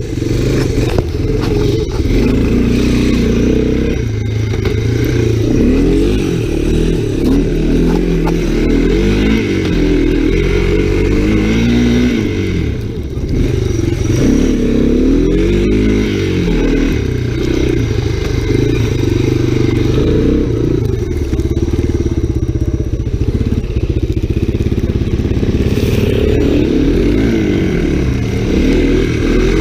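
Honda 250SX three-wheeler's single-cylinder four-stroke engine being ridden hard through snow, its revs rising and falling over and over as the throttle is worked through turns, with a brief drop in revs about 13 seconds in.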